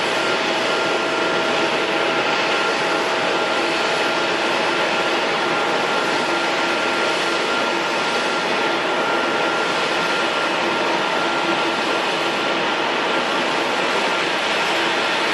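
Airliner jet engines running steadily: an even hiss with a constant whine held at one pitch.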